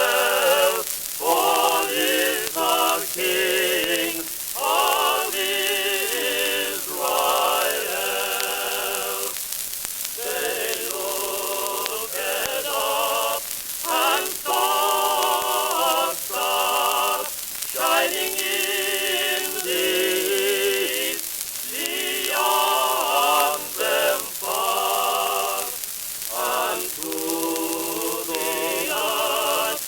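Singing voices on an early acoustic-era shellac phonograph record, held notes with a wavering vibrato in phrases a second or two long. A steady crackle and hiss of disc surface noise runs under the singing.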